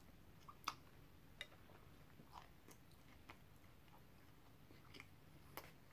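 Faint, wet chewing of a mouthful of burger, with scattered soft mouth clicks, the loudest about two-thirds of a second in.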